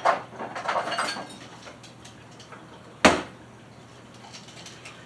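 Kitchen handling sounds as a cup is fetched: a run of short clatters and knocks at first, then one sharp knock about three seconds in, like a cupboard door shutting or a cup set down hard.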